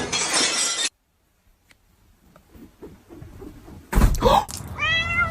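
A cat meowing once near the end, a drawn-out call that rises and then holds. Just before it comes a loud thump, and a short burst of noise at the start cuts off abruptly.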